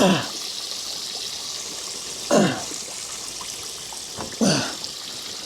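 Water running steadily from a washing-machine tap that was left on, flooding the house. Three loud, short sounds, each sliding steeply down in pitch, come about two seconds apart.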